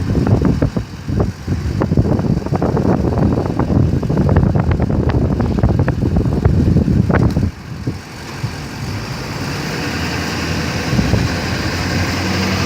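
Road traffic: a motor vehicle passing close by with a heavy low rumble and many sharp clicks and knocks, which fall away about seven and a half seconds in, then a steady engine and road noise that slowly grows louder.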